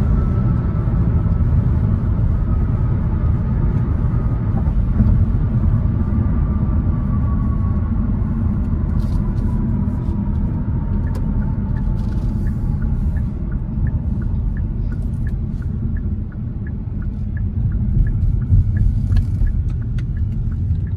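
Kia Stinger GT's twin-turbo V6 with Injen intakes heard from inside the cabin while driving and slowing down. There is a steady low engine and road rumble, with a faint tone falling in pitch over the first half. A faint regular ticking, about twice a second, comes in about halfway through.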